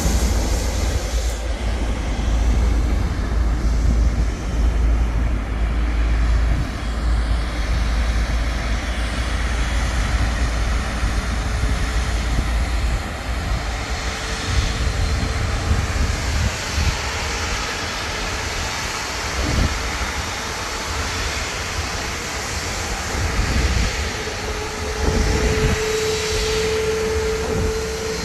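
Airliner's jet engines rumbling as it passes low over the beach on its landing approach, the rumble easing about halfway through, with a steady whine coming in near the end.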